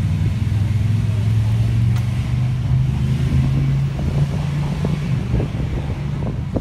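Car engine idling with a low, steady rumble, its pitch creeping slightly higher about three seconds in.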